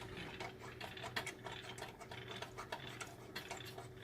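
Faint, irregular small ticks and scrapes of a small appliance light bulb's screw base turning in its socket as it is unscrewed by hand, over a steady low hum.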